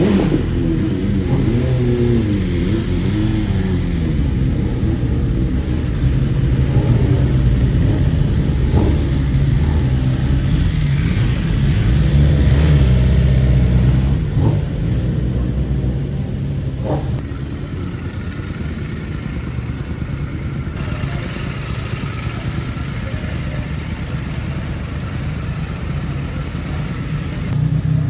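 Sport motorcycle engines revving and accelerating, the pitch swinging up and down in the first few seconds. The sound is loudest in the middle and drops to a lower, steadier engine note about halfway through.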